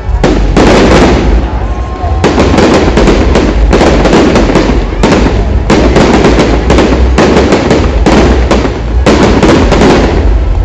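Fireworks display: a dense, rapid series of loud bangs and crackles, one after another with hardly a gap.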